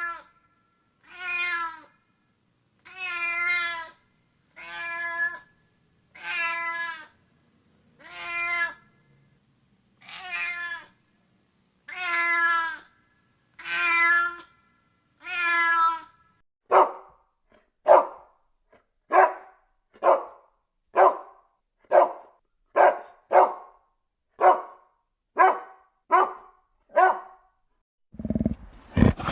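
Domestic cat meowing over and over: about ten long drawn-out meows, then from about halfway a quicker run of a dozen shorter meows. A loud roar begins just before the end.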